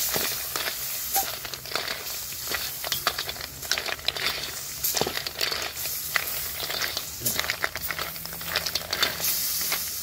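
Food frying and being stirred: many irregular crackles and clicks over a steady hiss.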